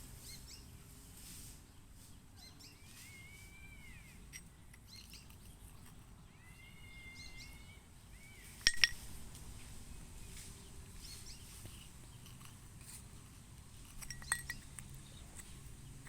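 Two drawn-out bird calls, each a rising-then-falling whistle, about three and seven seconds in, over faint background noise. A sharp click about halfway through is the loudest sound, with a few smaller clicks near the end.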